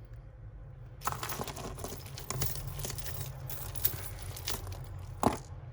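Costume jewellery being handled and sorted: beads and chains clicking and rattling together with rustling, starting about a second in, and one sharp click near the end.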